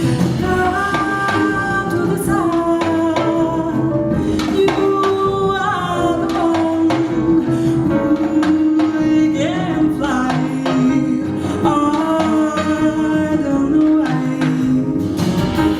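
Live jazz band playing, with a woman singing over double bass and guitar.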